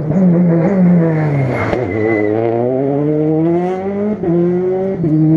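Rally car engine at full song passing close by: its pitch drops as the car goes past, then climbs steadily as it accelerates away, broken twice near the end by quick gear changes.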